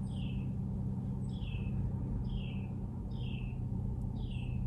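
A songbird calling a short, clear falling note about once a second, five times, over a steady low hum.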